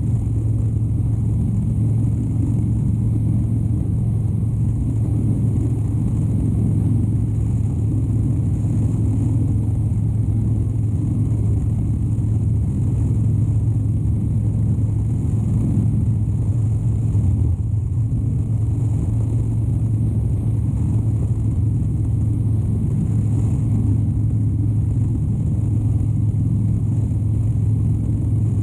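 2013 Harley-Davidson Dyna Wide Glide's 103-cubic-inch air-cooled V-twin running at a steady engine speed under way, with a deep, even exhaust note that holds without revs rising or falling.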